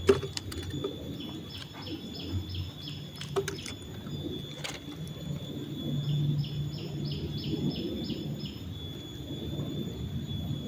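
A bird calling in two runs of short, evenly repeated high notes, about four a second, over a steady high-pitched tone and a low rushing background, with a few sharp clicks.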